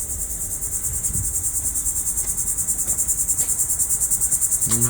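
Steady high-pitched insect buzz, rapidly pulsing and continuous, typical of cicadas or crickets singing on a hot summer day.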